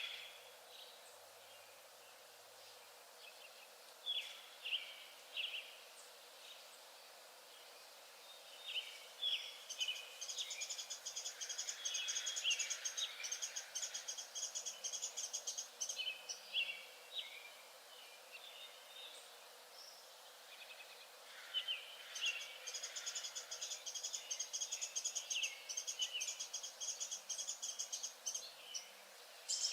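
Birdsong: scattered chirps and two long bouts of rapid, high trilling, the second about ten seconds after the first.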